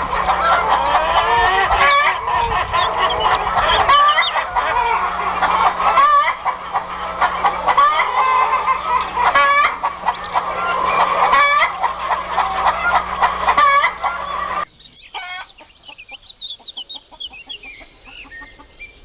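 A flock of chickens clucking and calling over one another, with a rooster crowing among them. About fifteen seconds in, the sound drops abruptly to a few quieter, sparser calls.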